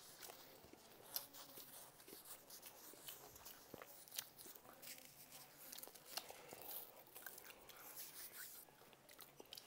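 Faint chewing and crunching of food, with scattered small clicks from the mouth.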